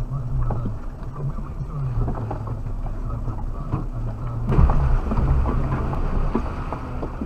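Suzuki Jimny's engine running at low revs, heard from inside the cabin, with knocks and rattles from driving over rough quarry ground; a heavier rumbling jolt comes about four and a half seconds in.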